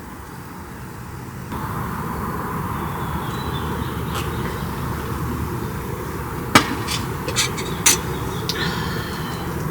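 Steady low rumbling noise with a few sharp knocks, the loudest about two-thirds of the way through.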